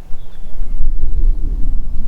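Strong wind buffeting the camera microphone, a loud, uneven low rumble that swells about half a second in.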